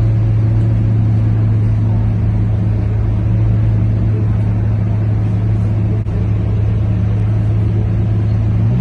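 Scania K230UB city bus's diesel engine running with a steady drone held at one constant pitch, which drops away right at the end.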